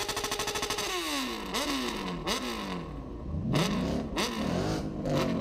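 Engine slowing through a series of downshifts: the revs hold steady for about a second, then fall away and jump back up with each shift, about four times.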